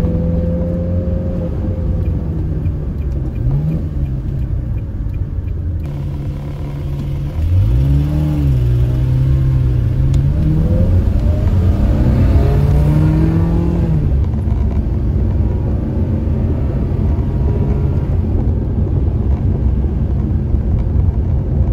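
Ferrari 360 Modena's V8 engine heard from inside the cabin while driving. It runs steadily at first, then grows louder about seven seconds in and rises and falls in pitch through several seconds of acceleration, settling back to a steady pull for the rest.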